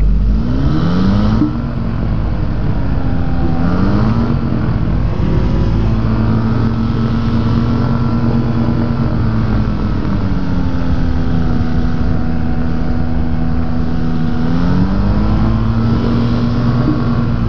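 Rotax engine of a Quad City Challenger ultralight running under changing power. Its pitch rises twice early on, eases back near the middle and rises again near the end, over a steady heavy rumble of wind in the open cockpit.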